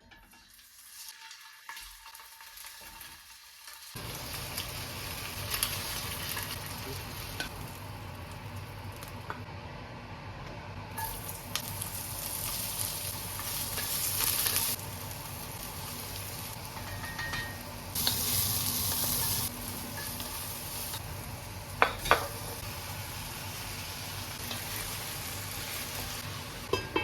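Food sizzling and frying in a pan while it is stirred. The sizzle grows louder for a few seconds about midway and again a little later, and there are two sharp knocks about four-fifths of the way through.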